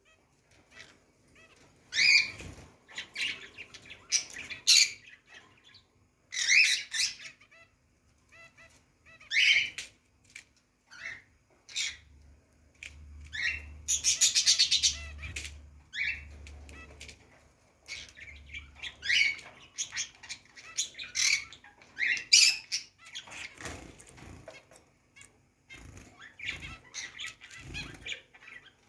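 Pet birds calling in short, sharp chirps and squawks every second or two, with a burst of rapid rattling noise lasting about two seconds near the middle.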